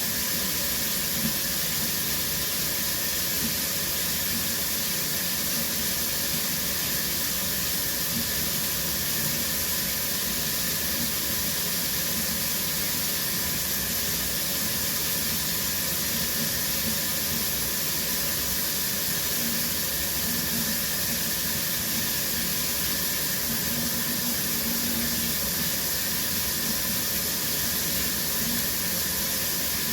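Shower running steadily: an even, unbroken hiss of water spray.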